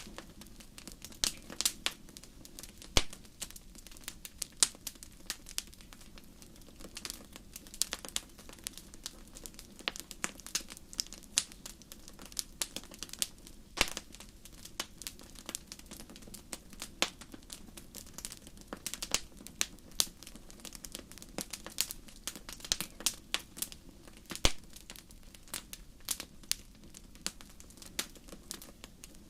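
Wood campfire crackling, with irregular sharp pops and snaps, sometimes several a second, over a low steady rush of burning.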